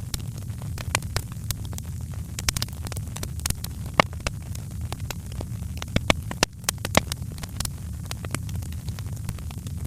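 Fireplace fire crackling, with irregular sharp pops and snaps over a steady low rumble. The loudest pops come about four seconds in and around six to seven seconds in.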